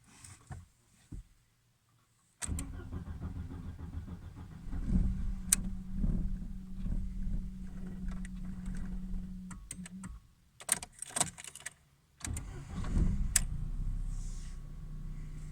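Audi A4 B5 hard starting: the starter cranks the engine for several seconds without a clean start and is cut off. After a few clicks it cranks again, and the engine catches and settles into a steady idle.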